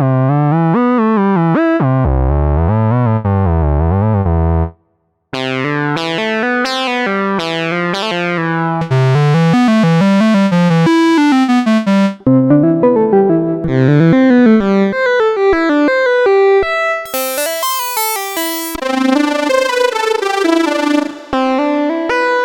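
Roland System-100 software synthesizer playing preset patches: short melodic phrases of bright, buzzy notes, some with a wavering, gliding pitch. The patch sound changes several times, with a brief silence about five seconds in and a burst of bright hiss a little before the last change.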